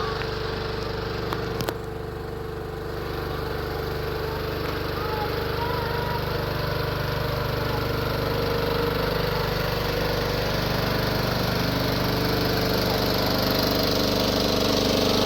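Tractor engine running steadily, growing gradually louder, with a single click about a second and a half in.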